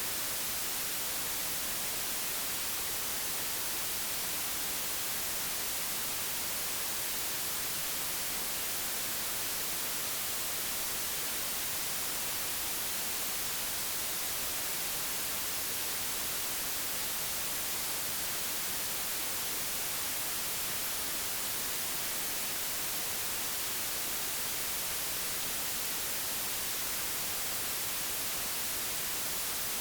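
Synthetic white noise: a steady, even hiss with no changes, the brightest part in the high frequencies.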